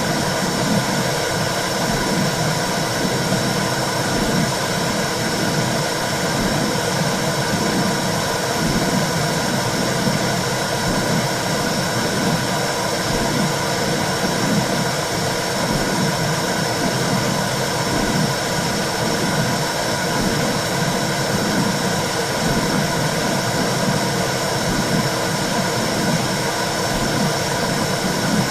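Simulated womb sound for soothing a baby: a steady, unbroken whooshing hiss over a low, wavering rumble.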